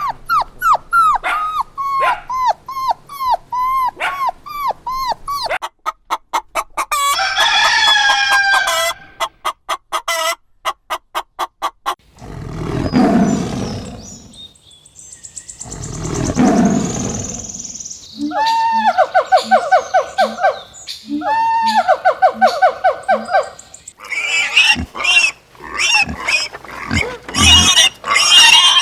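A sequence of different animal calls, one after another. First come quick repeated short calls, about two a second. Then come two long rough low calls, then two stretches of fast pulsing trills, and near the end a dense jumble of calls.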